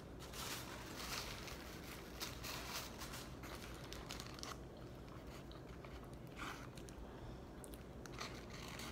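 Faint chewing of a fast-food burger with the mouth closed, mixed with scattered soft crinkles of its paper wrapper as the burger is handled.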